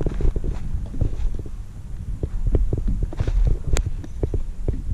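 Irregular low thumps and knocks as a fish is handled and laid on a measuring board on a plastic kayak. There is one sharp click a little under four seconds in.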